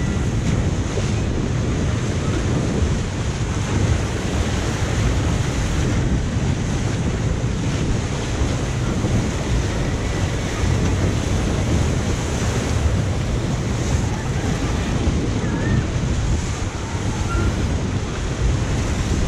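Steady rush of wind buffeting the microphone, mixed with water rushing and splashing, as a Zierer Jet Ski water-ride vehicle circles over its pool.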